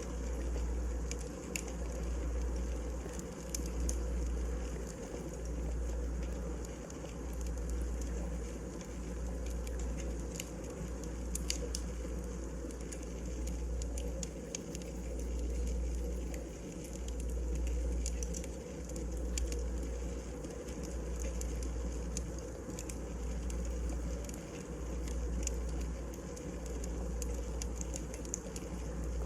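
Wood fire burning in a fireplace, crackling with many scattered sharp snaps over a low rumble that swells and fades every couple of seconds.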